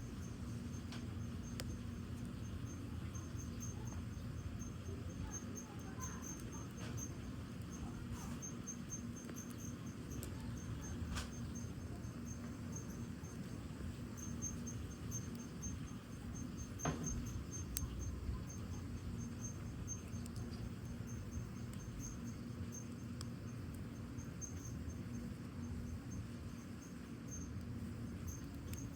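Firewood burning in a fire pit with a steady low rush and sparse, irregular crackles and pops; the loudest pop comes a little past halfway. Crickets chirp steadily in a high, pulsing trill behind the fire.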